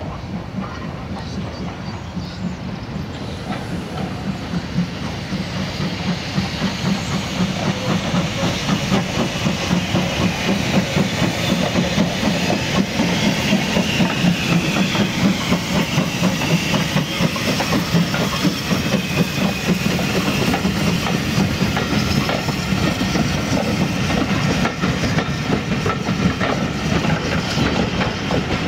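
Wagons of a steam-hauled goods train rolling along the track, with a dense, continuous clatter of wheels over the rails. The sound grows louder over the first several seconds and then holds steady.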